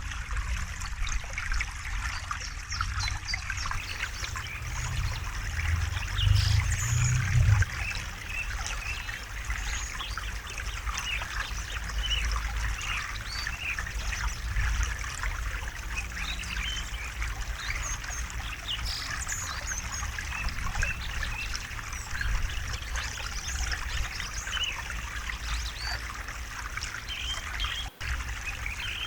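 River water trickling and babbling steadily. A louder low rumble swells about five seconds in and stops about two and a half seconds later, and the sound drops out for an instant near the end.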